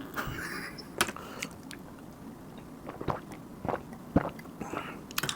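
A person chewing and biting food, with a handful of short, crisp crunching clicks spaced irregularly through the chewing.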